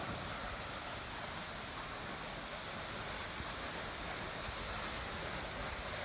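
Nachi Falls, a tall single-drop waterfall, plunging with a steady, even rushing noise.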